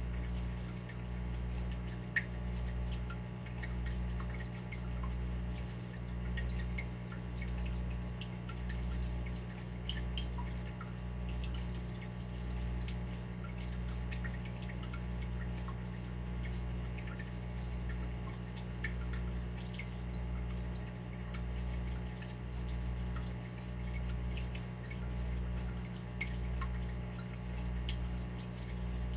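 Water dripping in a small room: scattered light drops, with two sharper drips about two seconds in and near the end. Under them runs a steady low hum that swells and fades about once a second.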